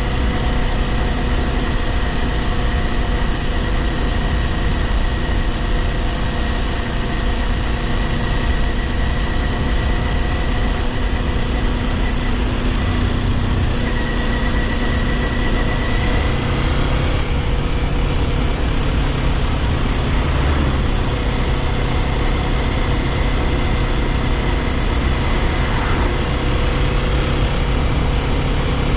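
Kawasaki Ninja 400's parallel-twin engine running at a steady pitch, heard over a steady hiss of wind and road noise; the engine note shifts slightly about halfway through.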